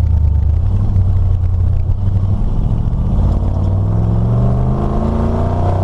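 Chevy S10 pickup's swapped-in carbureted engine heard from inside the cab while driving: running steadily, then accelerating with rising pitch over the second half, and dropping back at the very end.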